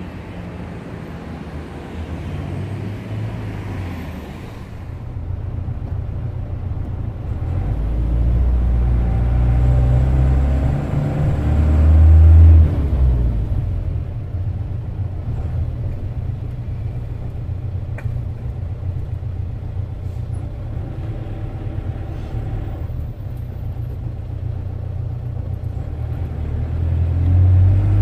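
Road traffic running, then the low rumble of a vehicle's engine and tyres heard from inside its cabin in slow stop-and-go traffic, louder for a few seconds near the middle before settling into a steady drone.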